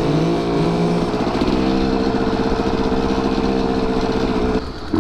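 Two-stroke dirt bike engine, a 2023 Husqvarna TE150, running steadily at low speed in first gear. The note rises a little in the first second, holds level, then drops away shortly before the end.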